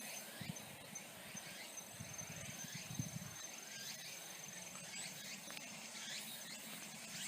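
Insects chirping: a steady high trill with many short, high, falling chirps over it. Low, muffled thumps come between about two and three seconds in.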